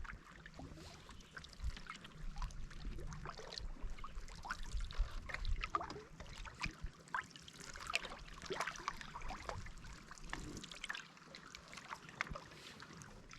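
Canoe paddles dipping and pulling through the water, with irregular small splashes and drips off the blades.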